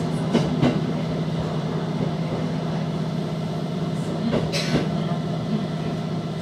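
Aoimori Railway 701 series electric train running on the track, heard from inside: a steady running hum with a couple of clicks about half a second in and a brief rush of noise about four and a half seconds in.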